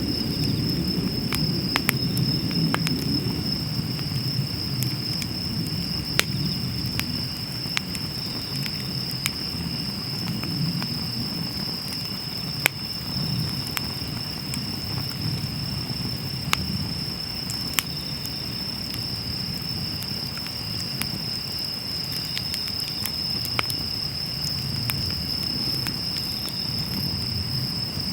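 Wood fire burning in a fire pit, a low rush of flames broken by scattered sharp crackles and pops, with the steady high trill of insects over it.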